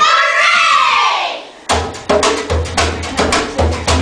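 Voices singing a held, sliding phrase for about a second and a half, then hand percussion breaks in with a fast, loose run of sharp drum and block strikes.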